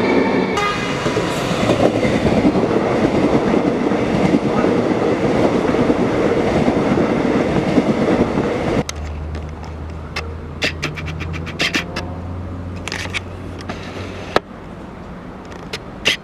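Metro suburban electric train running on the track close by: loud rail and wheel noise with some clickety-clack. About nine seconds in it cuts off suddenly to a quieter steady low hum with scattered short clicks.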